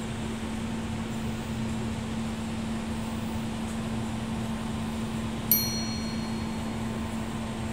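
Steady hum and even rushing noise of a train, with one brief, sharp metallic ding about five and a half seconds in.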